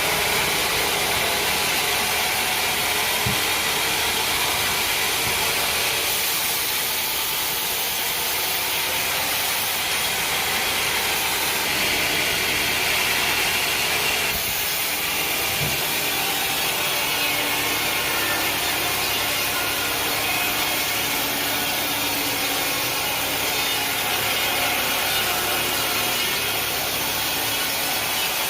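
Sawmill saw cutting steadily through a mahogany log, a continuous rasping noise of the blade in the wood.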